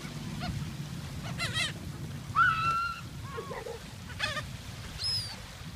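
Seagulls calling around people feeding them: several short, separate squawks, one about a second and a half in, a longer one near the middle, and more towards the end.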